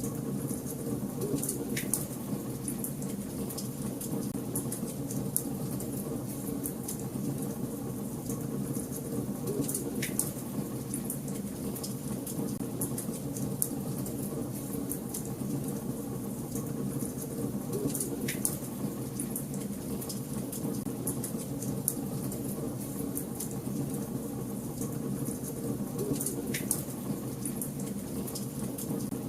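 Fire burning in a fireplace: a steady low rush of flames with frequent small crackles, and four louder snaps spaced about eight seconds apart.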